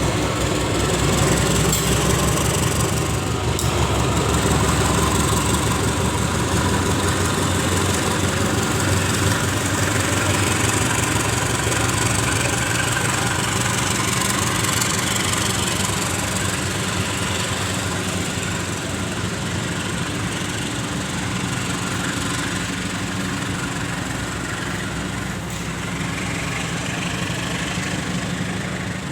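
Diesel locomotive engine idling with a steady low throb, easing off slightly in the second half.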